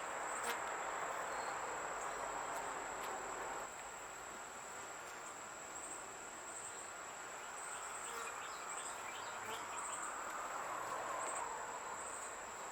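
Honeybees humming around an open hive while brood frames are lifted and inspected, a bit louder for the first few seconds, with a steady high insect trill behind.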